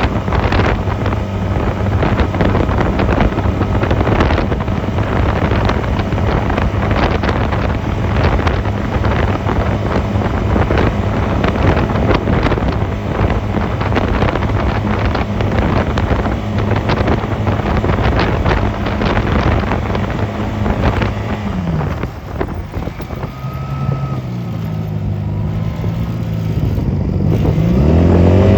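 Honda 250cc motorcycle engine running at a steady cruise, with wind buffeting the microphone. About 22 seconds in the engine slows and its revs drop in steps, then it revs up again near the end as the bike accelerates.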